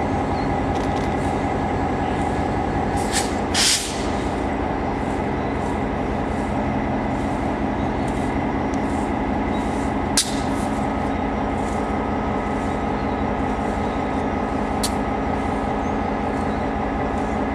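Diesel locomotive engine running steadily, with a short hiss of air about three and a half seconds in and a sharp metallic clank about ten seconds in.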